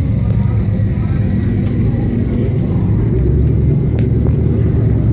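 Motor vehicle engine running steadily, a continuous low rumble.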